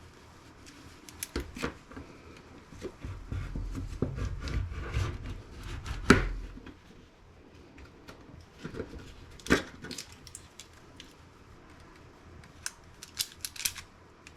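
Small sharp clicks and handling noise from prying and picking at the cellophane wrapping on a laptop circuit board. A low rumbling rustle runs through the first half. The sharpest clicks come about six and nine and a half seconds in, and a quick run of clicks comes near the end.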